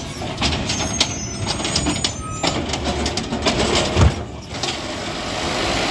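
Garbage truck at work: engine running under a string of metal clanks and bangs, with brief high squeals in the first two seconds and a heavy thump about four seconds in.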